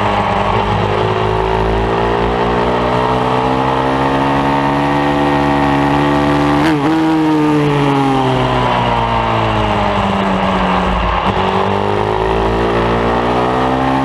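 Pit bike's single-cylinder engine revving hard on a track lap: the pitch climbs steadily, breaks with a short dip about halfway, falls away over a few seconds, then climbs again near the end.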